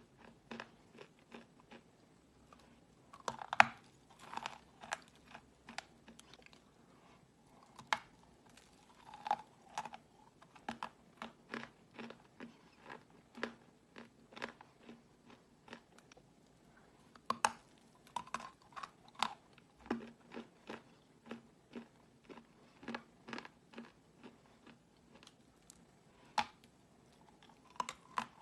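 Edible chalk from a round piece being bitten and chewed: an irregular run of sharp, crisp crunches, two or three a second, the loudest about three and a half seconds in.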